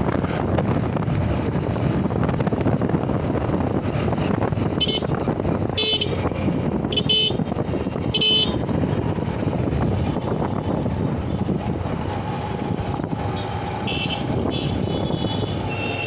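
Steady rush of wind and road noise on a moving motorcycle. From about five seconds in, a vehicle horn gives four short toots about a second apart, and more horn toots come near the end.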